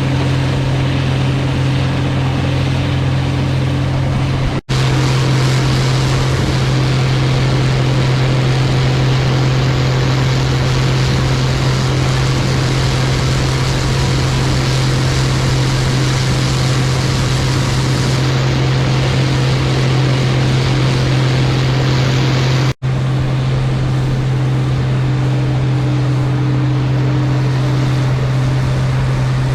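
Case IH 16-series Axial-Flow combine running steadily while harvesting: a loud, even diesel-and-threshing drone with a strong constant low hum. The sound breaks off for an instant twice, about 5 and 23 seconds in.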